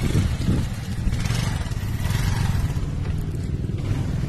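Motor vehicle engine running with road noise while moving, a steady low rumble under a hiss.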